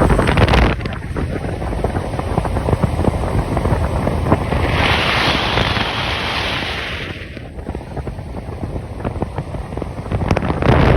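Steady road and wind noise of a semi-truck driving, with wind buffeting the microphone. A hiss swells for about two seconds midway.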